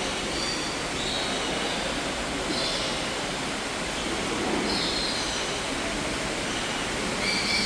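Birds in an indoor aviary giving short, high chirping calls several times over a steady rushing background noise.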